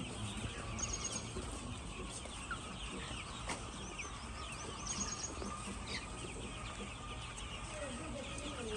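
A flock of chickens clucking and calling over one another in a poultry house, with a steady low hum underneath.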